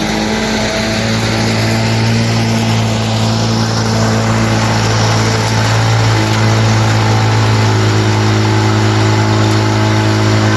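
Lawn-Boy 8157 push mower's two-stroke engine running steadily at a constant speed.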